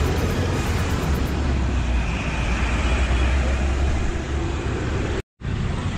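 Steady road-traffic noise with a heavy low rumble. The sound cuts out completely for a moment near the end, an edit cut, then resumes.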